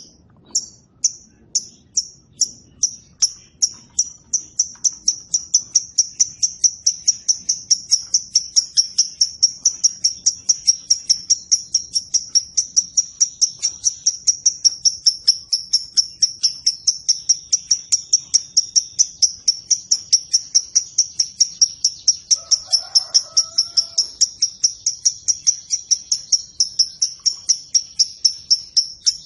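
A lovebird's long 'ngekek': an unbroken series of sharp, high chirps, starting at about two a second and quickening within a few seconds to a steady rapid rhythm of three or four a second.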